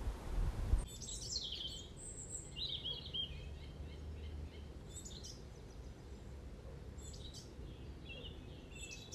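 Small songbirds chirping and singing in short, high phrases, over a low wind rumble. Just under a second in, a louder rush of wind noise on the microphone cuts off suddenly.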